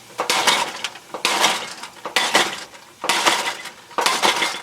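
A mini sledgehammer striking the metal of an old dehumidifier, about five heavy clanking blows roughly a second apart, each ringing briefly.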